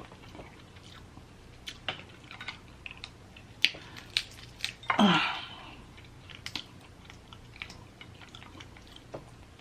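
Close-up chewing while eating snow crab legs, with scattered sharp clicks and snaps. A brief vocal sound comes about five seconds in.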